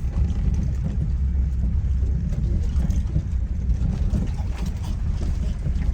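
Safari van driving, heard from inside the closed cabin: a steady low rumble of engine and tyres.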